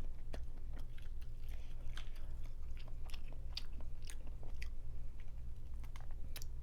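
Close-miked chewing of crawfish meat, with many short wet mouth clicks and smacks scattered throughout, over a steady low hum.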